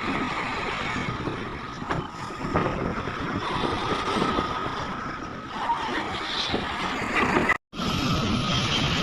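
Heavy earth-moving machinery at work, an excavator loading overburden into trucks: a steady engine rumble with a faint, even whine above it. The sound cuts out for a split second near the end.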